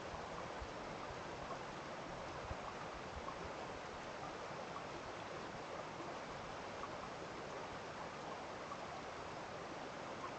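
Water running steadily, the even rushing of a small stream.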